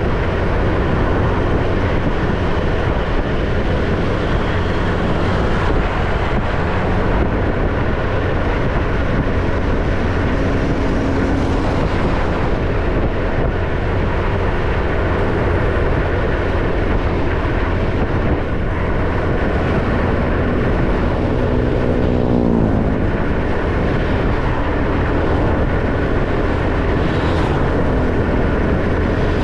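Motorcycle riding along a road: the bike's engine running with steady wind and road noise on the microphone. About three-quarters of the way through, an engine note falls in pitch over a couple of seconds.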